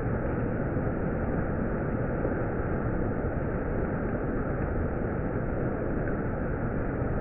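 Monsoon rain falling steadily: an even, unbroken hiss with no thunderclaps or other sudden sounds.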